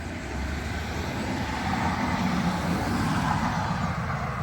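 Road traffic: a motor vehicle passing on a city street, a steady rumble and tyre hiss that builds to its loudest about three seconds in and then eases off.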